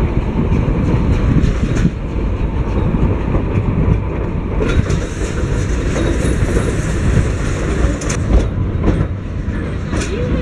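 Durango & Silverton narrow-gauge passenger train heard from on board as it rolls along: a steady rumble of the wheels with irregular clicks from the rails, and a brighter hiss that comes in for a few seconds in the middle.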